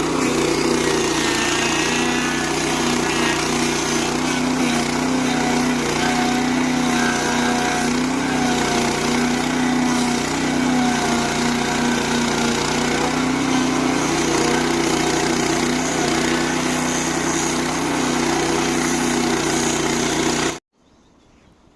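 Stump grinder's 8 hp petrol engine running steadily at working speed, its pitch wavering slightly; the sound cuts off abruptly near the end.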